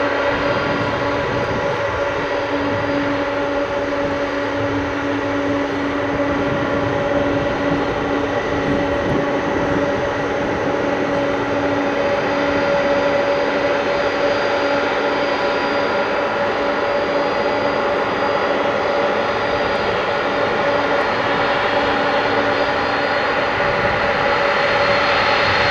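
Boeing 747-400 jet engines running, a steady rushing noise with a held whine, growing a little louder near the end.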